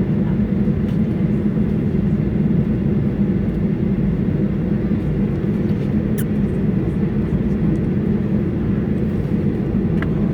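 Steady low rumble inside the cabin of a Boeing 737-800 with its CFM56 turbofans running, engine noise mixed with rushing air. It holds level, with no spool-up or change in pitch. A faint click comes about six seconds in.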